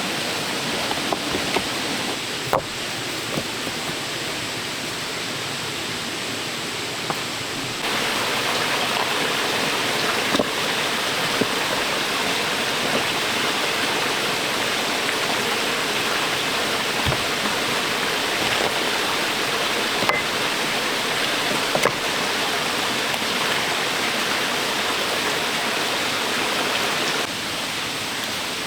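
Steady rushing of water, with a few scattered light ticks; it turns abruptly louder about eight seconds in and drops back near the end.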